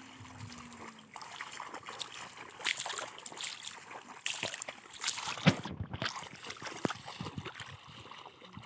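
River water splashing and trickling: irregular small splashes and drips over a faint running-water hiss, with one sharper splash about five and a half seconds in.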